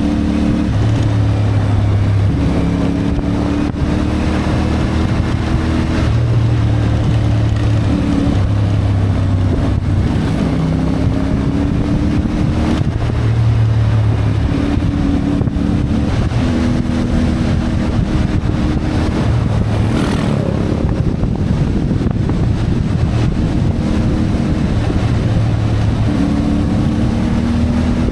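CF Moto 450MT motorcycle's parallel-twin engine running under way, its note rising and falling again and again as the rider changes speed, over a steady rush of wind and road noise.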